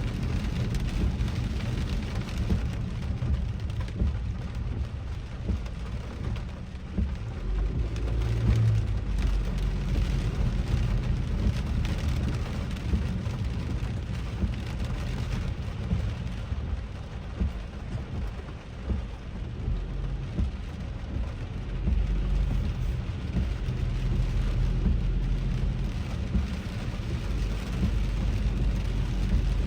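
Steady rain falling on a moving car, heard from inside the cabin over a constant low road and engine rumble.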